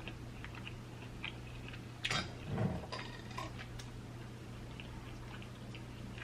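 Scattered small clicks and handling noises as spicy relish is spooned onto a sandwich. A louder knock and brief rustle come about two seconds in, over a steady low hum.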